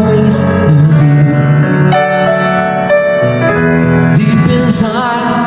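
Live piano playing slow held chords, with a singer's voice coming in near the end.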